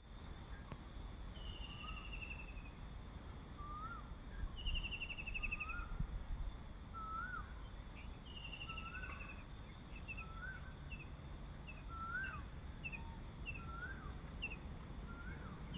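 Several birds calling over a low background rumble. A short rising-and-falling note repeats about every second and a half, with three longer descending trills and scattered quick chips and high notes.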